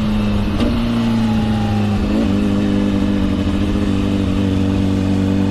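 Honda CBR600RR's inline-four engine running at steady high revs while riding, with a short dip and recovery in pitch about two seconds in.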